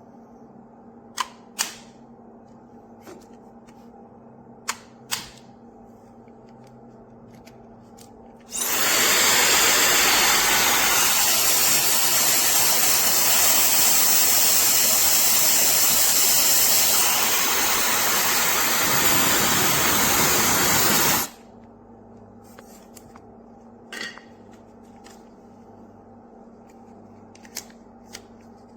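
Compact 1500 W ionic travel hair dryer blowing steadily for about twelve seconds, its sound shifting slightly partway through, then switching off abruptly. A few sharp clicks from handling before and after it runs.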